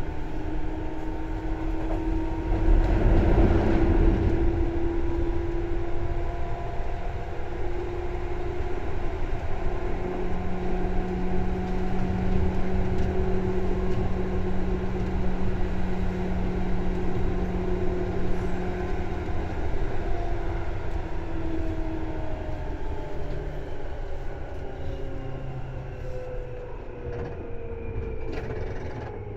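Seibu 2000 series electric train running, heard from inside the car: a steady rumble of wheels on rail with the pitched whine of the traction motors and gears, and a louder rushing surge about three seconds in. Near the end the motor tones start to fall in pitch as the train slows.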